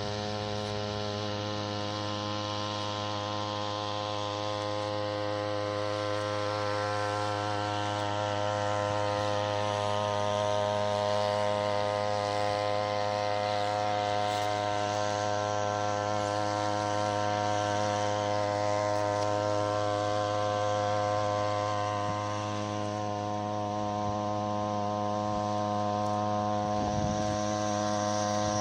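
Small 3 hp Chinese outboard motor, a brush-cutter-style engine, running steadily at constant speed while pushing the boat along. It has a steady buzzing note that dips slightly for a moment about two-thirds of the way through.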